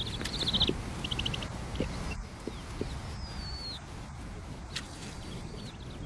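High-pitched bird calls: rapid chittering pulses and short descending whistles. They are busiest in the first second, and a single descending call comes a little past three seconds. A low steady rumble runs underneath.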